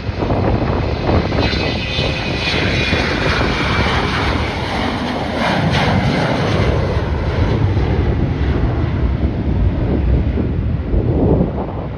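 An airliner's engines passing close by: a loud, rumbling rush with a high whine that comes through in the first half and fades, over wind buffeting the microphone.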